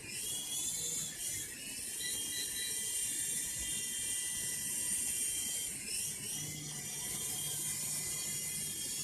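UWING U12S mini RC helicopter's electric rotor motors and blades whirring in flight: a steady high whine over a hiss, its pitch rising and dipping briefly near the start and again about two-thirds through as the helicopter manoeuvres.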